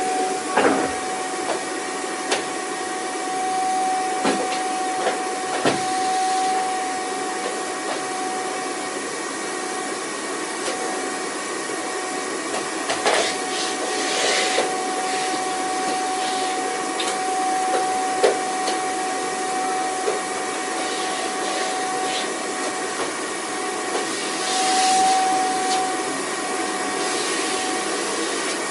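Vacuum cleaner running steadily: a rush of air with a constant motor whine. Scattered clicks and knocks sound throughout, and there are brief louder rushes about halfway through and near the end.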